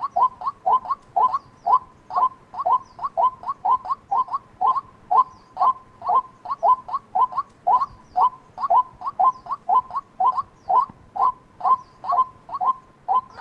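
White-breasted waterhen calling: a steady, fast series of short, hoarse notes, about three a second, some coming in quick pairs. It is a lure-call recording used to draw waterhens in.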